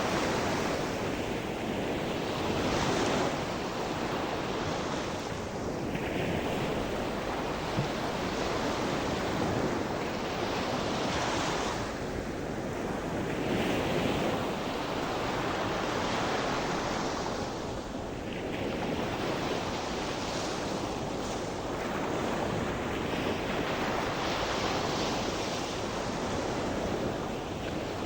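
Sea surf: waves breaking and washing ashore in a continuous rush that swells and eases every few seconds, with some wind on the microphone.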